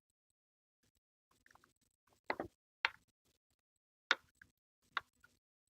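About four short sharp clicks and knocks, beginning about two seconds in, with fainter ticks between: the plastic housing and parts of a Ryobi stick vacuum being handled and fitted together during reassembly.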